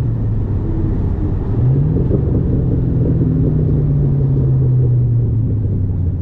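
Car engine running under way with a steady rumble; the engine note climbs about one and a half seconds in as it picks up revs, holds, then eases back down near the end.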